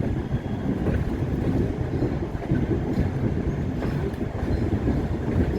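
A moving passenger train heard from an open-air coach directly behind its EMD F40PHM-2 diesel locomotive: a steady rumble with wind on the microphone and a few faint clicks from the wheels on the rails.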